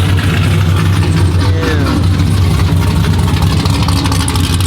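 A loud car engine idling steadily, with a deep, even low hum. A brief falling whine passes over it about a second and a half in.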